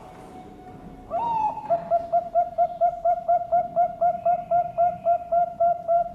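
Zebra dove (Bangkok-type perkutut) singing. About a second in comes a rising opening coo, then a fast run of short, evenly spaced cooing notes, about four or five a second.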